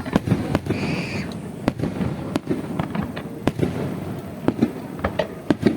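Aerial fireworks bursting in quick, irregular succession: many sharp bangs and pops a second, with a brief high whistle about a second in.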